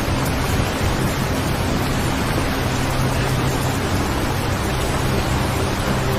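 Steady rain, an even hiss with no breaks, with a low steady hum underneath.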